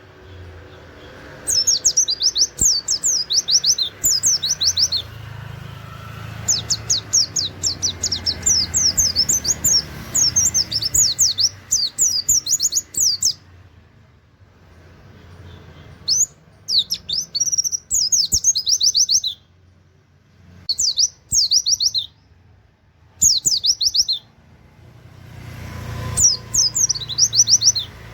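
Pleci (Oriental white-eye) singing in rapid bouts of high, quickly falling whistled notes, several bursts of a few seconds each with short pauses between. This is the fast 'nembak' song with canary-like 'wit wit' phrases, used as tutor song for other songbirds.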